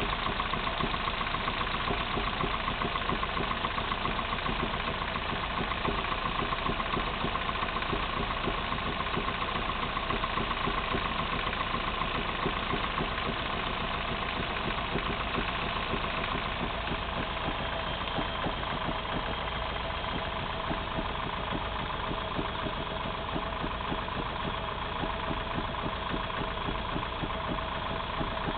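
Opel C20NE 2.0-litre four-cylinder engine idling cold, with a fast, steady knocking from inside the engine.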